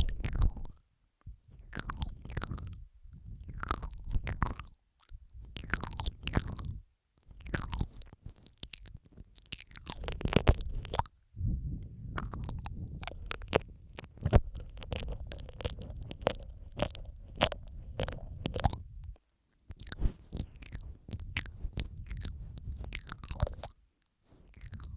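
ASMR mouth sounds close to the microphone: wet clicks, smacks and squishy licking noises in clusters, several layered on top of each other, with short pauses between bursts.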